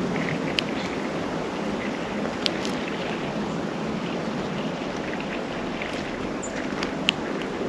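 Steady rushing outdoor background noise, with three sharp clicks about half a second in, about two and a half seconds in, and about seven seconds in, from birds at a feeder, and a few faint short high chirps.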